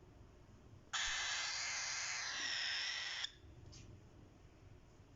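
A cockatiel chick giving one harsh, hissing call about two seconds long, starting about a second in and cutting off sharply.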